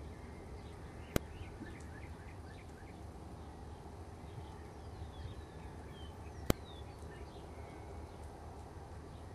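Birds chirping over a steady low rumble of storm noise, with two sharp clicks, about a second in and about two-thirds of the way through.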